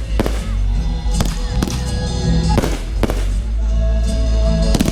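Fireworks going off, about five sharp bangs spread through a few seconds, over music.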